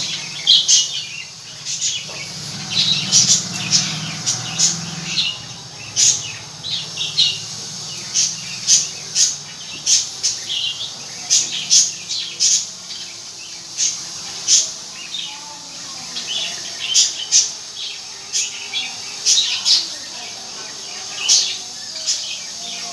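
Small caged pet birds chirping: short, high, quick calls repeating several times a second.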